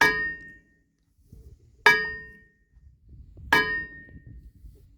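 Hammer striking a steel part three times, a blow about every second and three-quarters, each one clanging with a ringing note that fades quickly.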